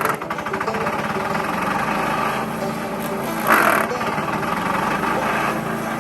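DR Premier 300 chipper shredder running steadily under power, chipping branches, with a brief louder burst of chipping about three and a half seconds in.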